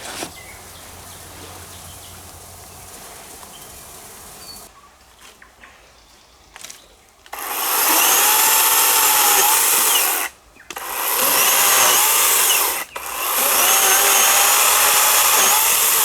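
Power saw cutting wood: its motor runs in three long stretches of about three, two and three seconds, starting about seven seconds in, with the pitch dipping as it bites and rising again, and stopping fully between cuts.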